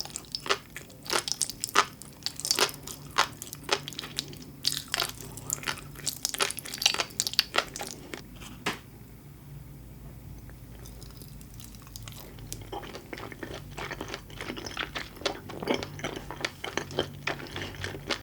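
Close-miked eating sounds: dense crackling, popping bites and chewing of tobiko flying-fish roe and sea grapes. The crackles ease off for a few seconds about nine seconds in, then pick up again.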